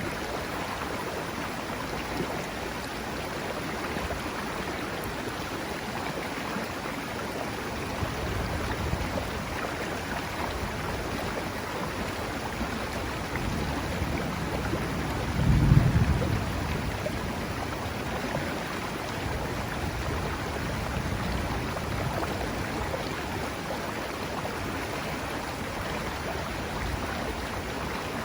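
River water rushing steadily, with low rumbles of distant thunder rolling in several times; the loudest rumble comes about halfway through.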